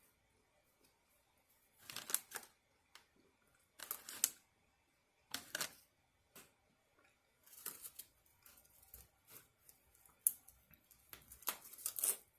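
Eating and food-handling noises: several short bursts of crisp crunching and rustling, with faint clicks in between.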